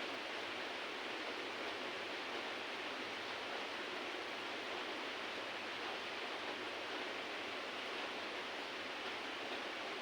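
Heavy rain falling steadily, an even hiss with no thunder or single impacts standing out.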